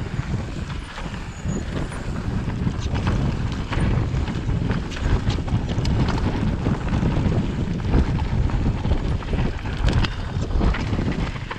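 Wind rumbling on the microphone of a mountain bike riding downhill over a rough trail, with many short clicks and rattles from the bike over the bumps.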